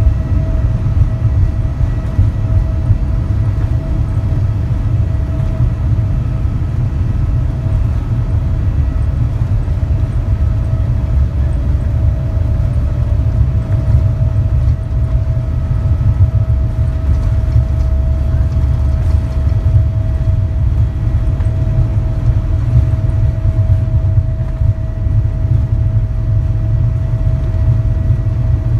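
Boeing 787-8 Dreamliner cabin noise heard from a passenger seat: a loud, steady rumble of engines and airflow with a constant hum over it.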